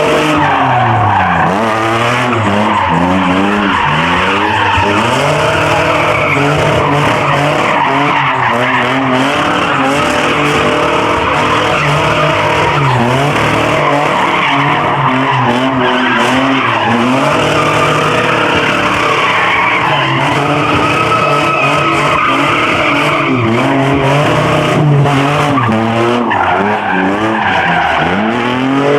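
Muscle-car engine revving hard, its pitch swinging up and down over and over, with tyres squealing and skidding without a break, as in a burnout or donuts in a pit.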